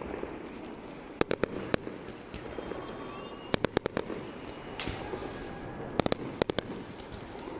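Fireworks going off: three quick volleys of four or five sharp bangs each, spaced about two and a half seconds apart, over a steady background rumble.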